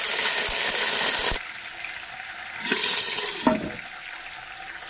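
Curry leaves and dried red chillies sizzling as they hit hot oil: a loud hiss for the first second and a half that then dies down, flares again for about a second around three seconds in, and settles to a quieter sizzle.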